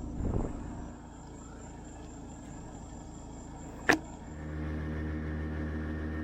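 Steady motor hum, with a short rustle near the start and a sharp click a little before four seconds. Just after the click, a steadier, slightly louder hum with a different pitch takes over.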